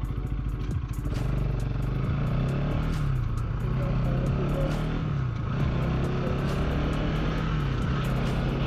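Bajaj Pulsar NS200's single-cylinder engine running while riding, its pitch rising and falling several times with the throttle.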